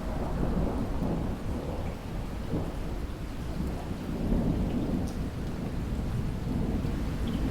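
Thunder rolling over steady rain: a low rumble comes in at the start and swells and ebbs throughout.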